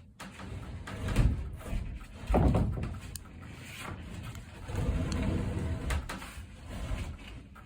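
Irregular heavy wooden knocks and low thumps with scraping as a sheet of OSB is handled and hoisted on a homemade wooden rig.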